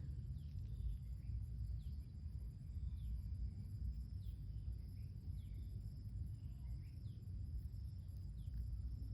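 Outdoor ambience: a low rumble, a steady high insect drone, and a small bird giving short falling chirps about once a second.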